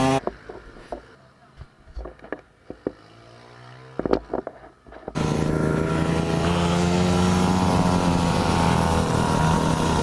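Mini moto engine: a quieter stretch with scattered knocks and a thump about four seconds in, then from about five seconds the engine runs loud at steady high revs.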